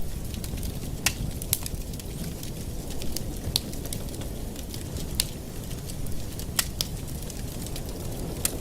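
Wood fire burning in a fireplace, crackling with sharp irregular pops, several of them a second or more apart, over a low steady rumble.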